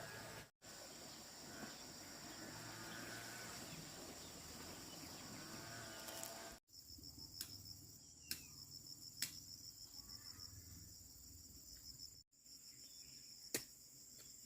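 Faint high-pitched insect chirring, with a rapid pulsing trill, breaking off briefly twice, and a few sharp clicks, the loudest near the end.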